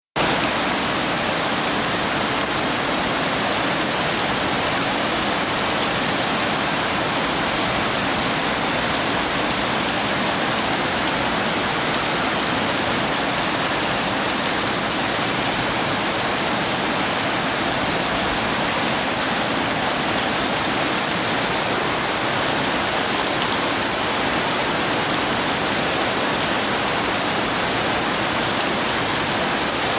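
Heavy rain falling steadily: a dense, even hiss with no thunderclaps or other breaks.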